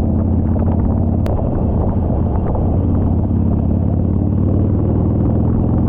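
Harley-Davidson motorcycle's V-twin engine running at a steady cruising speed with road noise, the pitch holding level throughout.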